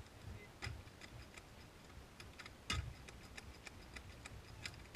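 Faint, irregular clicks and light knocks, roughly one or two a second, with one louder knock about halfway through.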